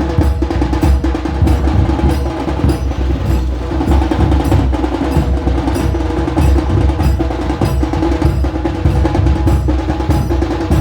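Loud, drum-led music: dhol drumming at a steady rhythm over a deep, continuous bass from an amplified sound system.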